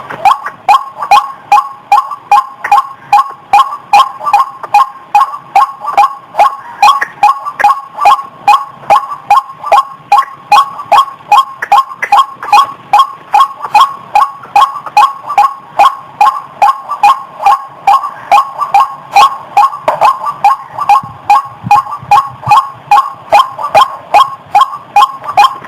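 White-breasted waterhen calling: a loud, monotonous 'wak' note repeated about two to three times a second without a break. This is the bird's lure call, the sound used to draw waterhens in for trapping.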